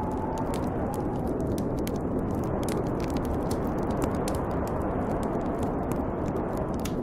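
Snowstorm wind blowing steadily with a bonfire crackling, many small sharp pops scattered throughout. A faint rising whistle of wind sounds in the first second.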